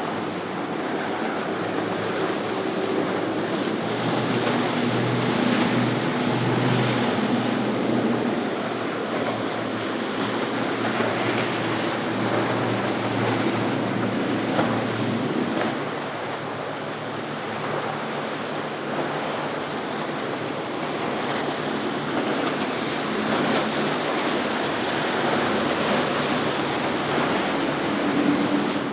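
Offshore fishing boats running out through an inlet one after another, their outboard engines droning as they pass, over a steady rush of wake and surf and wind on the microphone. The engine note is strongest in the first half, and the water and wind wash carries the rest.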